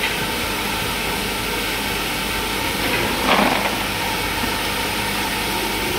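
Steady machinery noise, a continuous hiss with a low hum underneath, with one brief louder rustling swell a little past halfway.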